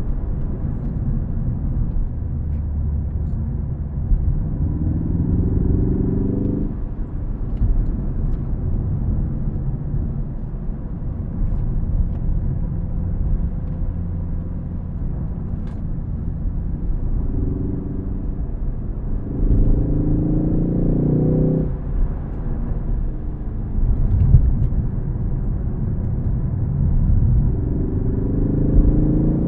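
Ford Focus ST engine accelerating hard through the gears of its six-speed manual. The note rises steadily in each gear and drops off suddenly at the upshifts, about four times, over a constant rumble of the road and tyres.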